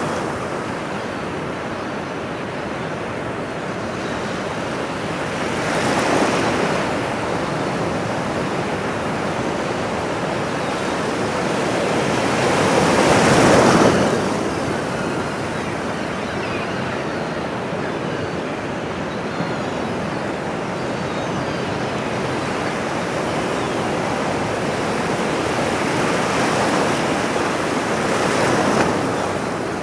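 Ocean surf: a steady wash of waves on a shore, with waves surging in and breaking now and then, the loudest about halfway through.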